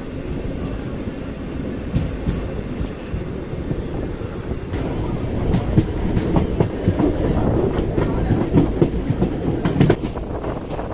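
Passenger train running on the track, heard from inside a coach: a steady rumble of the wheels with clicks and knocks from the rails, which grow busier and louder about five seconds in.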